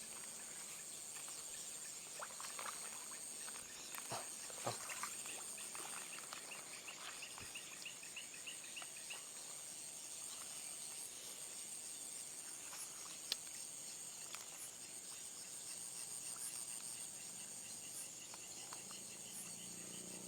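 Night insects chirring steadily at a high pitch, with a brief run of quick chirps about seven seconds in and a few faint clicks.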